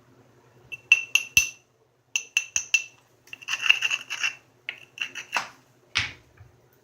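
Knapping a stone edge: a run of light, ringing taps of a knapping tool against the stone, three quick ones, then four, a short scraping, rubbing stretch, more taps and a last single strike near the end.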